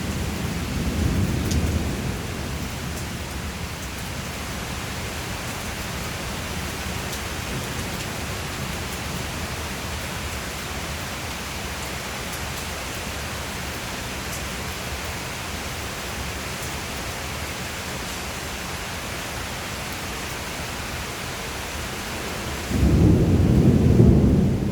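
Steady rain hissing throughout, with a low thunder rumble dying away in the first couple of seconds. Near the end a much louder roll of thunder breaks in suddenly.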